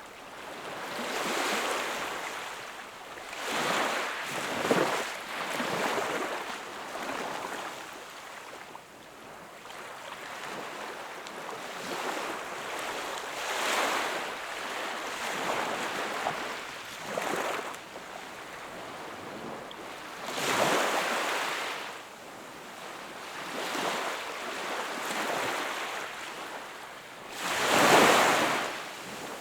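Sea waves breaking and washing on the shore, swelling and falling away in surges every few seconds, with the loudest break near the end.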